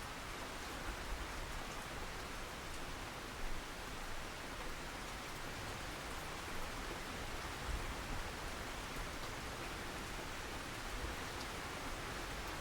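Steady rain falling, an even hiss with scattered drop ticks and a few slightly louder drops.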